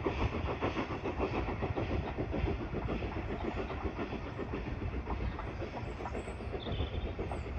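A train running along the track, with its wheels clicking rapidly over the rail joints. A few faint bird chirps come in near the end.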